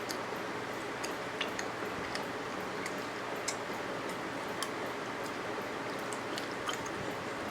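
A person chewing food, with irregular wet mouth clicks and smacks over a steady background hiss.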